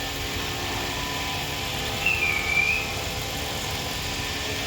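Car engine running steadily. About two seconds in, a short, high whistle-like tone dips slightly and fades out.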